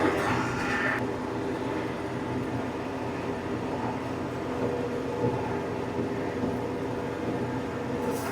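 TYM compact tractor's diesel engine running steadily with its PTO-driven flail mower spinning, as the mower backs into brush. The sound is briefly louder and harsher in the first second, then settles to an even hum.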